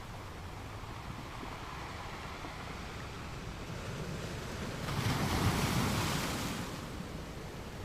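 Ocean surf: a steady wash of waves, with one wave breaking louder about five seconds in and dying away over a second or two.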